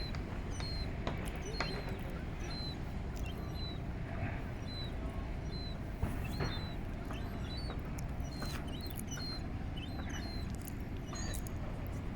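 A bird's short, high-pitched peeps repeating about once or twice a second, over a steady low background rumble.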